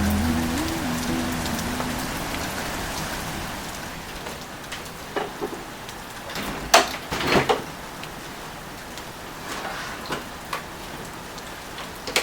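Steady rain falling on a surface, with a few sharp drip-like taps, the loudest around the middle. Soft background music fades out in the first couple of seconds.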